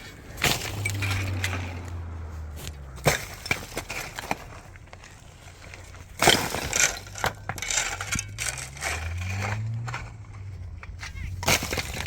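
A tractor engine running low, its pitch rising as it revs about eight to nine seconds in, with several sharp cracks and crunches of material breaking or being dumped.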